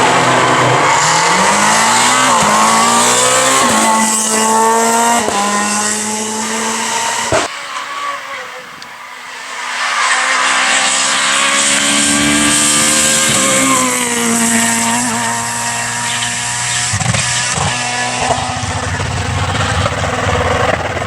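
Renault Clio R3 rally car's 2.0-litre four-cylinder engine at full throttle, revving up and dropping in pitch at each gear change. About seven seconds in there is a sharp click and a short dip, after which the engine builds up through the gears again.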